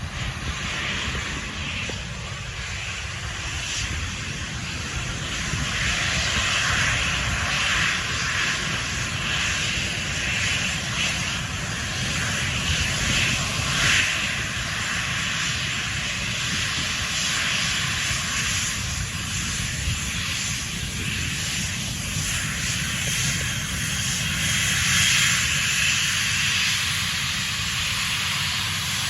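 An airliner's engines running close by: a loud, steady rush of engine noise over a low rumble, swelling slightly twice.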